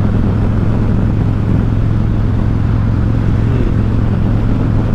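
Harley-Davidson Road King's V-twin engine running steadily at cruising speed, a constant low drone under a rush of riding noise.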